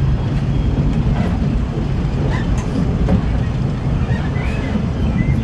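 Disneyland Railroad steam train running along the track, a steady low rumble heard from aboard a passenger car.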